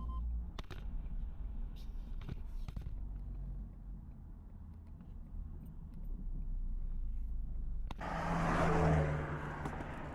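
Pickup truck driving with a trailer in tow: a steady low engine and road rumble with a few light clicks and rattles. About eight seconds in, a sudden louder, fuller sound with a few steady tones comes in.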